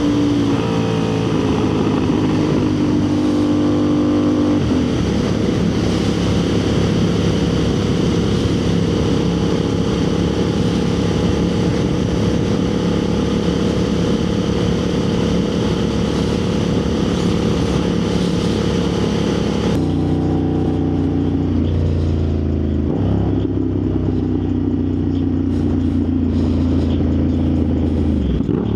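Motorcycle engine under way with wind rushing: the engine note changes about five seconds in, then holds steady at cruising speed. About twenty seconds in the wind hiss drops away and the engine note falls in steps as the bike slows.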